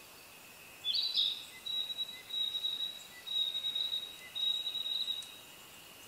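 A songbird singing: a short sharp note about a second in, then a thin, high trill held at one pitch in four stretches. A faint steady high drone, like insects, runs underneath.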